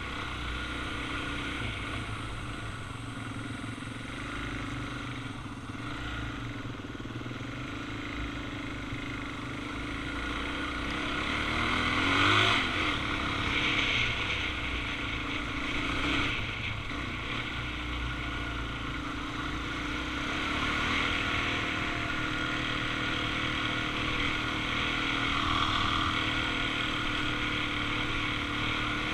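Suzuki DR-Z400's single-cylinder four-stroke engine running steadily while riding, with a brief rise in revs about twelve seconds in.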